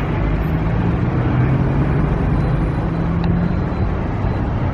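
Steady low drone of a vehicle engine with road or traffic noise, unchanging throughout.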